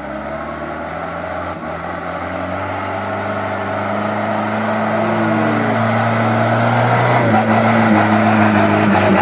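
Diesel engine of a loaded truck labouring under heavy throttle up a steep slippery hill, growing steadily louder. The engine note shifts about seven seconds in.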